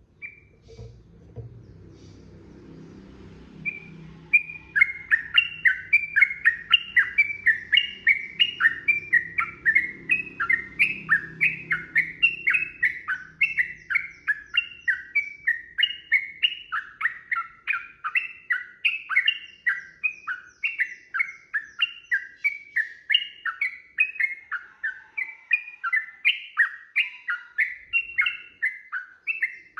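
Yellow-vented bulbul (trucukan) singing a long unbroken run of rapid, repeated bubbly notes, about three a second, starting about four seconds in. A low rumble sits under the first half, and the song cuts off abruptly at the end.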